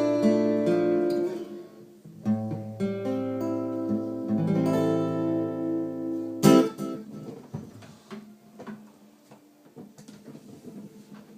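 Acoustic guitar playing the closing bars of the song: picked chords ringing, then one final chord struck sharply about six and a half seconds in that rings out and fades, leaving only faint small clicks.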